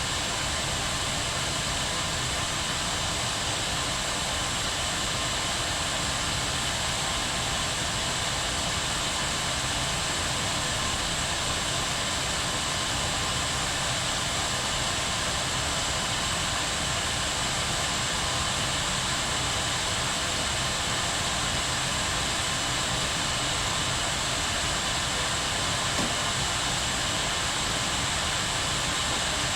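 Kettle boiling: a steady rushing hiss that holds even throughout.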